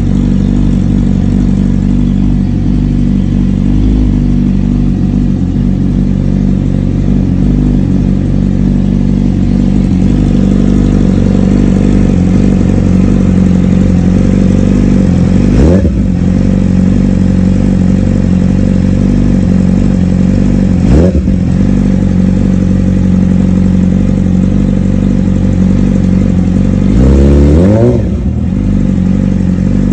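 2017 Yamaha YZF-R6 inline-four with an M4 slip-on exhaust idling steadily while warming up. It gets a quick throttle blip about halfway through, another about five seconds later, and a longer double rev near the end.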